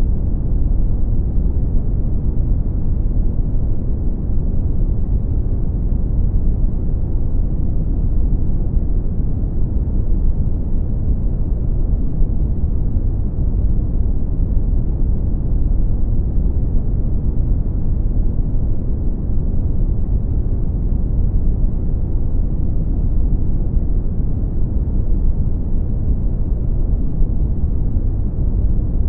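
Brown noise: a steady, deep rumbling hiss, its weight in the bass and little treble, unchanging throughout.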